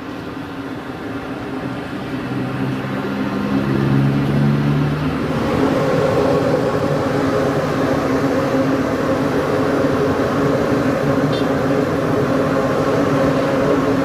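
Large gas burner under a frying vat running with a steady rushing noise and hum, growing louder over the first few seconds and then holding steady.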